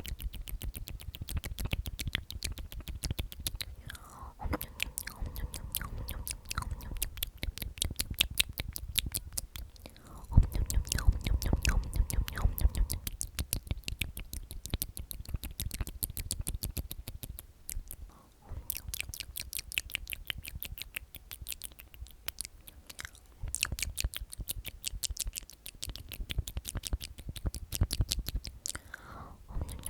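Whispered repetition of the word "omnomnom", thick with rapid wet mouth clicks and lip smacks, many to the second.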